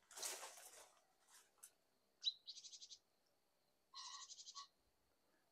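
A brief rustle in the first second, then a small songbird giving two short, high, rapid trills, a second and a half apart.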